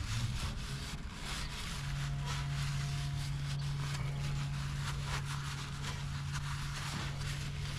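Paper towel rubbing and wiping spilled engine oil off a mini bike, light scraping strokes over a steady low hum that starts about two seconds in.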